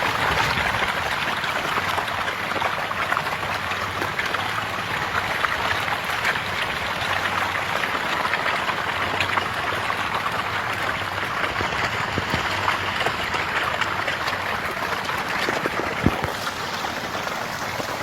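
Continuous dense splashing and churning of water, full of many small splashes, as a mass of fish feed at the surface; one louder knock near the end.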